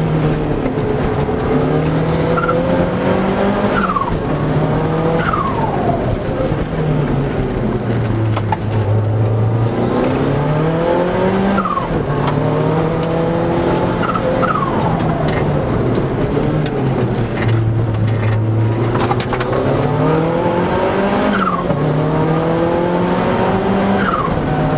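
Car engine heard from inside the cabin during a slalom run, revving hard as it accelerates and then falling sharply in pitch at each shift or braking point, again and again.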